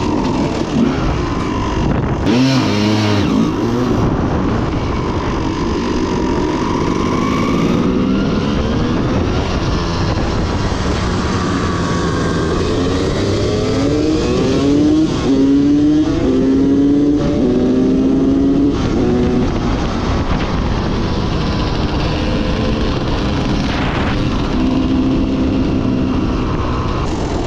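Dirt bike engines running at speed, the pitch climbing under throttle and dropping back several times as the rider shifts up through the gears, with wind noise on the microphone.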